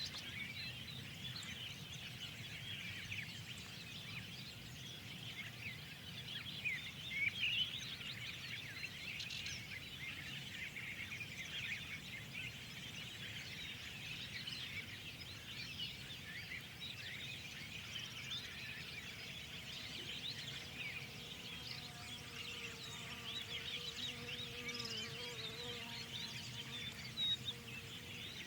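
Many small birds chirping and twittering at once, a dense chorus of short high calls over a low steady background noise.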